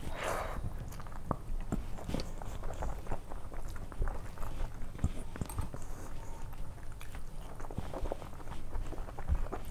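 Close-up eating sounds: wet chewing and lip smacking of rice and dal eaten by hand, made up of many short sticky clicks. Fingers squish and gather the wet rice on a steel plate between mouthfuls.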